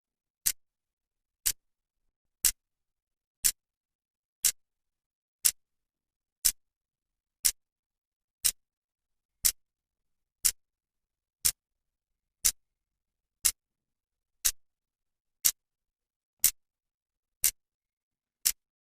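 Clock second hand ticking, one sharp tick every second, evenly spaced, with silence between the ticks.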